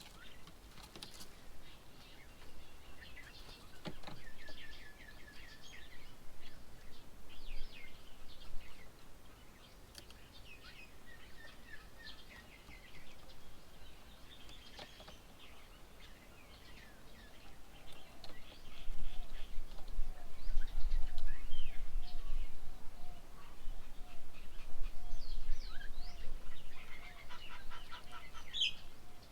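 Several wild birds chirping and calling with short, quick notes and trills throughout. A low rumble rises about two-thirds of the way in and is the loudest sound for several seconds.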